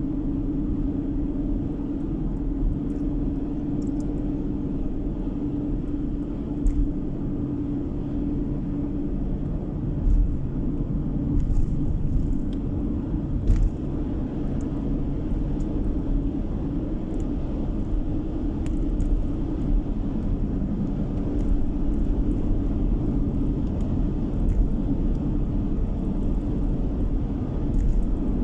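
Steady car cabin noise while driving: a low engine and road rumble with a constant droning hum, and scattered light clicks and knocks from bumps.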